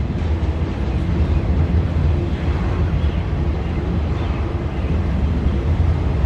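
Freight train rolling past: a steady, loud low rumble of wheels on rail with faint high squeals of wheels on rail.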